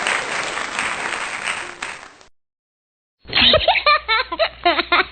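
Applause sound effect, a crowd clapping, fading out about two seconds in; after a moment of silence, a short lower-quality clip of a person's voice starts near the end.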